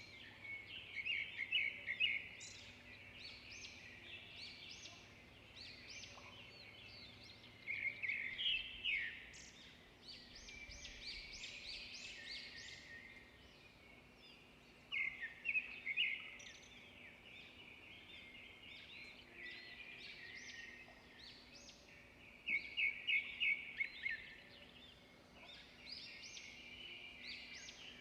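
Songbirds singing and chirping, with a louder song of quickly repeated notes returning about every seven seconds, four times in all.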